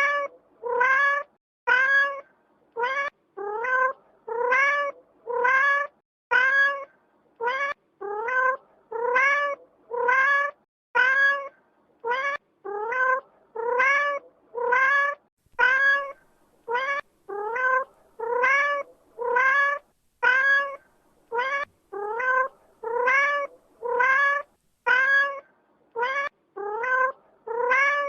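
Domestic cat meowing over and over, about one meow a second, each call rising in pitch with short silences between.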